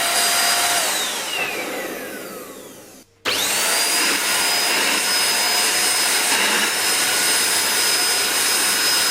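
AGARO Regal Plus vacuum cleaner motor running with a high whine. It is switched off and winds down, the whine falling over about two seconds. Just after 3 seconds it is switched back on, the whine rising quickly and then holding steady as the motor runs at full suction.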